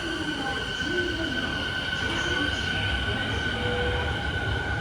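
Electric commuter train with a steady high-pitched whine over a rumble; the rumble grows heavier about three seconds in.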